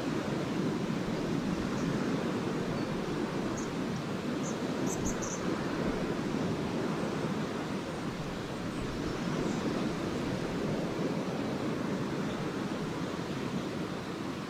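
Lake waves washing onto the beach in a steady, gently swelling rush. A few brief high bird chirps come about five seconds in.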